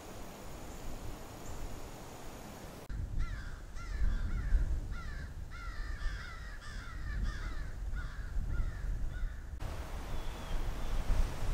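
Birds calling over and over, a dozen or so short calls that rise and fall in pitch, some overlapping, starting about three seconds in and cutting off abruptly a couple of seconds before the end. Wind rumbles on the microphone underneath.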